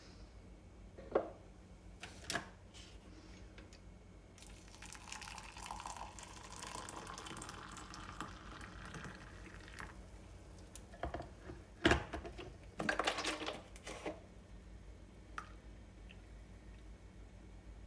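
Kitchen sounds: a few light knocks, water running for about five seconds, then a sharp knock and a short clatter.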